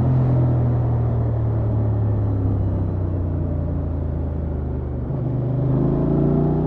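Honda XL750 Transalp's parallel-twin engine on its stock exhaust, under way on the road with wind and road rush. The engine note eases slowly down, then climbs again about five seconds in as the throttle opens.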